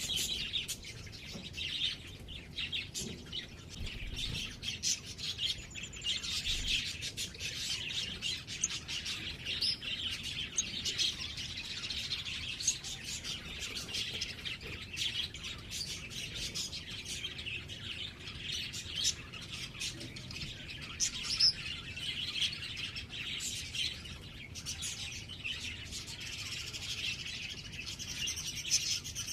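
Small birds chirping and twittering without pause, a dense run of short, high tweets.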